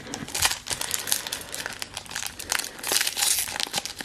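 Foil Pokémon booster pack wrapper crinkling and crackling in the hands, irregular and continuous, as the pack is worked and torn open.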